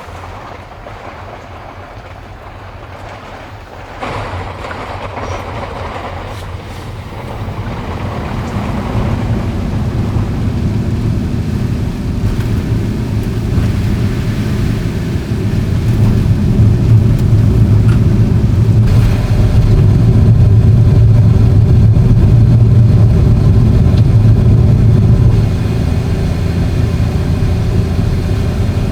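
Motor vehicle running, a low steady engine-and-road drone that builds up gradually, is loudest through the middle and eases down about 26 seconds in. A hissing noise is heard at the start.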